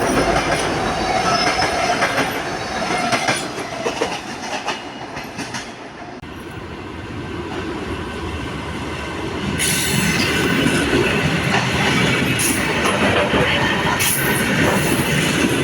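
A train running on rails, with wheels clattering and squealing. The sound fades over the first six seconds, then a louder stretch of train noise starts abruptly a little before ten seconds in.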